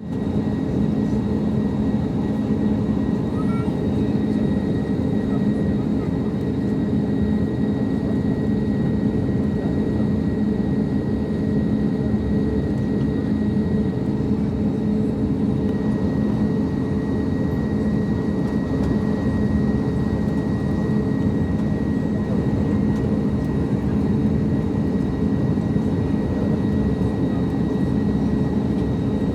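Airliner on approach to land, heard as a steady rumble of engine and air noise inside the passenger cabin, with a constant hum in it and no change in level.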